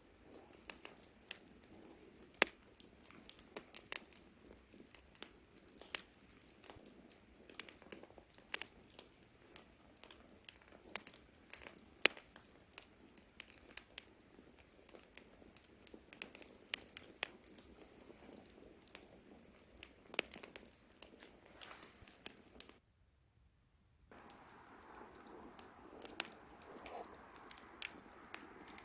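Wood burning in a campfire, crackling with frequent sharp pops and snaps over a soft hiss of flame. The sound drops out to silence for about a second a little after twenty seconds in, then resumes with fewer pops.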